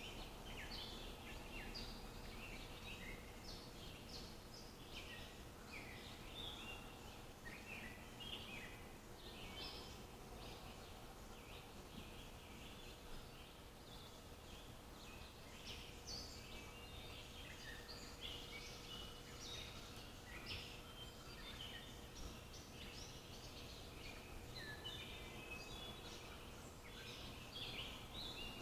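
Several small songbirds chirping and twittering continuously with short, quick calls, over a faint steady background hiss.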